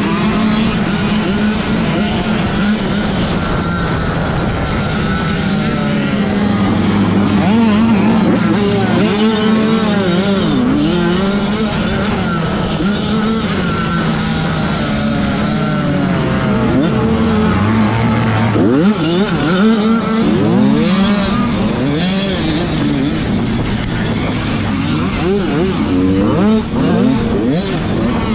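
A field of 85cc two-stroke motocross bikes racing, many engines overlapping, their pitches constantly rising and falling as the riders rev, shift and back off around the track.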